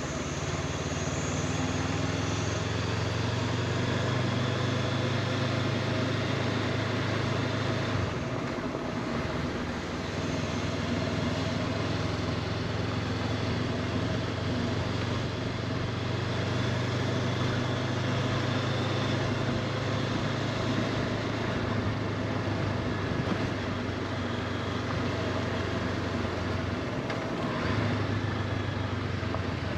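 A vehicle engine runs in a steady low drone under a constant rush of wind or road noise. Its note drops briefly about eight seconds in and again near the end.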